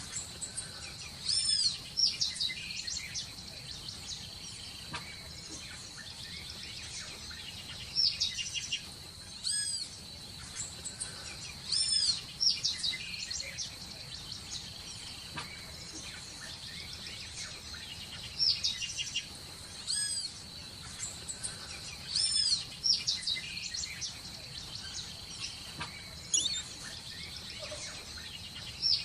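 Birds chirping in short clusters of high, arching whistled calls every few seconds, over a steady high-pitched insect drone.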